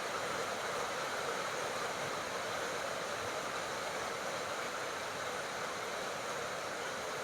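Steady tropical rain falling, an even hiss with no breaks.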